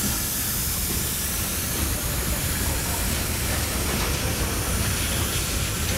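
Diesel freight locomotives passing close by, engines running with a steady loud rumble and a high hiss. About four seconds in, the boxcars behind them start rolling past on the rails.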